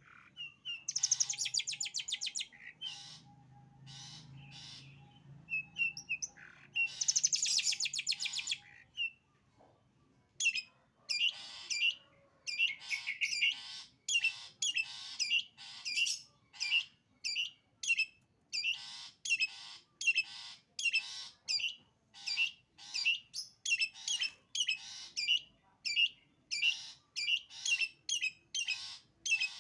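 Long-tailed shrike (cendet) singing in the 'sembur' style: two long, rapid chattering bursts, then a long run of short harsh notes repeated about twice a second.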